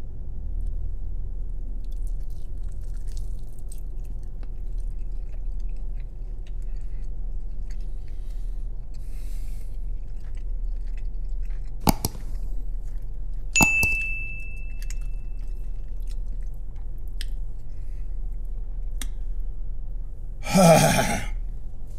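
A man chewing a bite of Carolina Reaper–sauced chicken wing over a steady low hum inside a car cabin. Two sharp clicks come about 12 and 14 seconds in, the second followed by a brief ringing tone. Near the end he lets out a loud, hard exhale as the pepper's heat hits.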